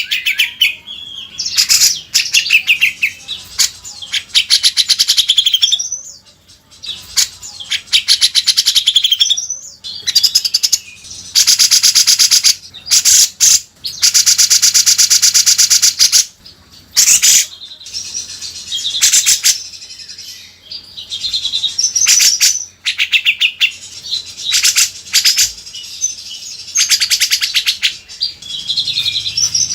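Grey-cheeked bulbul (cucak jenggot) calling: quick chattering phrases of high notes, broken by two long, fast rattling trills about midway through.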